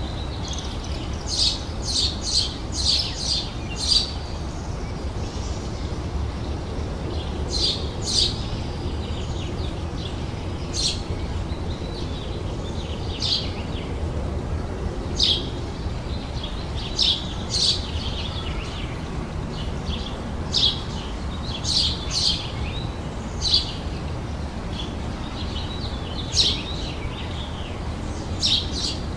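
Songbirds chirping: short, high chirps, some in quick runs of three or four and others single, every second or two, over a steady low background rumble.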